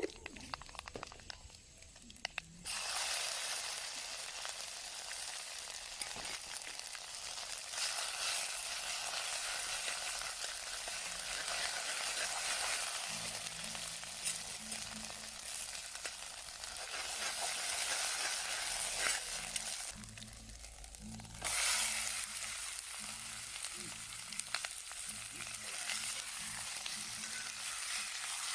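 Food sizzling as it fries in hot oil in a pan. The steady sizzle starts suddenly a couple of seconds in, drops away briefly about twenty seconds in, then resumes.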